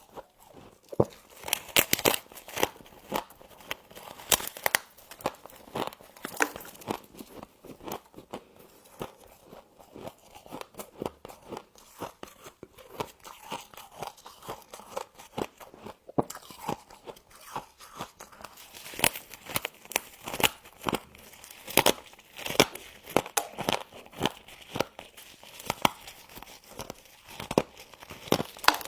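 Frost being bitten and chewed close to the microphone: many sharp, irregular crunches, some in quick clusters.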